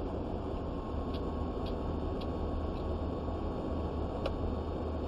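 Steady engine and road rumble heard inside a truck cab while driving, with a few faint light ticks over the first three seconds and one more a little past four seconds.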